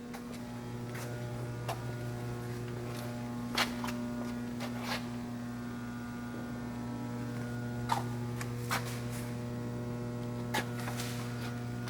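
Steady electrical mains hum, a low drone with overtones, with a few light clicks scattered through it.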